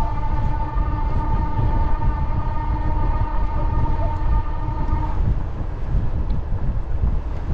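A train, with a long steady high tone and overtones that cuts off about five seconds in, over a low rumble.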